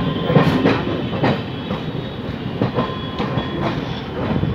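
Passenger train running over the rails, heard from on board at an open door or window: a steady rumble of wheels on track with sharp, irregularly spaced clacks of the wheels passing over rail joints.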